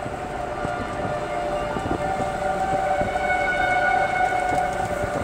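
Outdoor tornado warning sirens sounding a steady, held tone that swells a little louder partway through, heard over the road rumble of a moving car.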